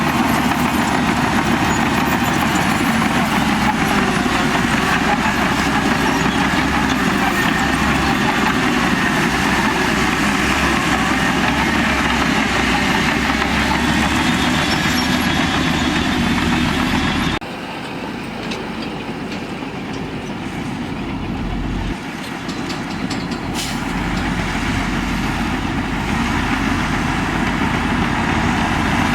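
Heavy diesel engine of earthmoving machinery running. A little past halfway the sound drops suddenly to a quieter engine note, then climbs back up toward the end.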